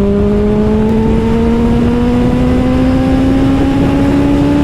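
Honda CBR650R's inline-four engine through an Austin Racing GP1R exhaust, pulling steadily in one gear with its note slowly rising as the bike gains speed, over a low rush of wind and road noise.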